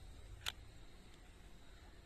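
A single sharp click about half a second in, a camera's shutter firing, over a faint low rumble.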